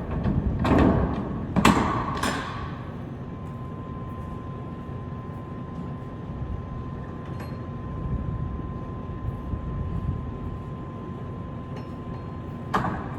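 A few heavy thumps and knocks in the first couple of seconds and another near the end, over a steady low rumble with a faint, steady high tone.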